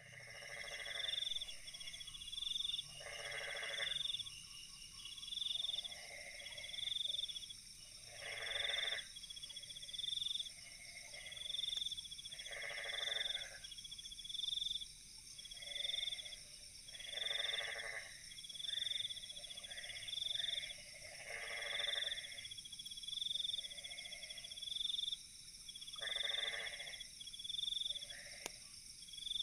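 Night chorus of frogs and insects: a frog call comes about every four to five seconds, shorter chirps repeat about once a second, and a steady high insect drone runs beneath.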